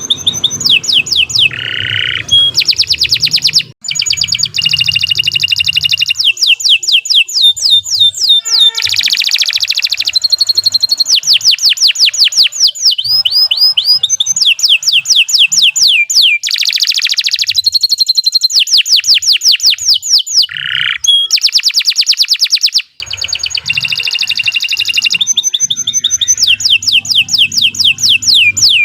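Domestic canary singing a long, loud song made of rapid trills, each a fast run of repeated sweeping notes, broken now and then by short held whistles. The song stops abruptly twice, for a split second, then carries on.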